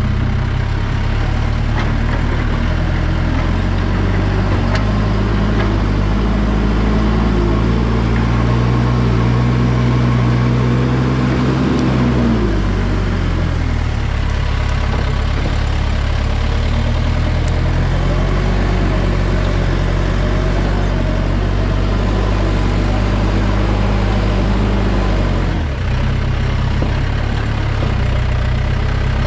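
Backhoe's diesel engine running steadily. Its pitch rises and holds higher for several seconds as it is worked, drops about twelve seconds in, then climbs again.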